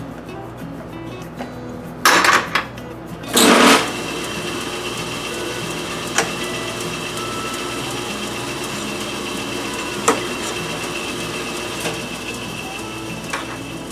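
Two brief loud noisy bursts, then a metalworking machine tool runs steadily with a high whine while a hole is reamed to 1/4 inch; a few light clicks are heard over it.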